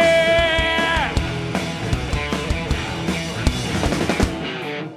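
Live rock band playing: a singer's long held note falls away about a second in, then guitars and drums carry on alone, with a momentary break just before the end.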